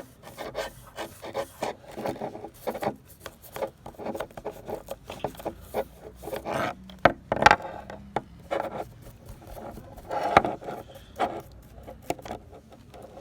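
Quick, irregular rubbing and scraping strokes, two or three a second, from an abrasive being worked by hand on an old plier being restored. Two strokes stand out as louder, one just past the middle and one about three-quarters of the way through.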